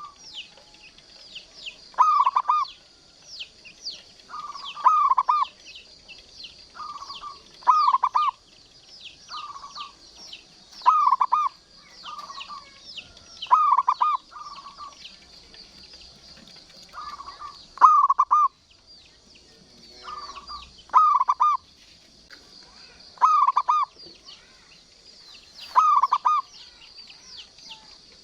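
Zebra dove (perkutut) cooing over and over, each phrase a short run of quick notes repeated about every two to three seconds, with constant high-pitched chirping behind it.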